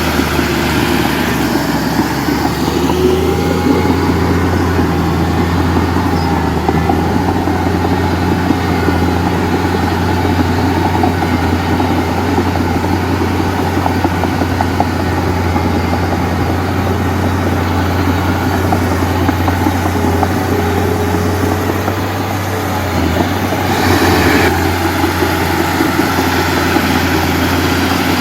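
Heavy diesel engine running steadily at a constant low hum, with a brief louder surge about three-quarters of the way through.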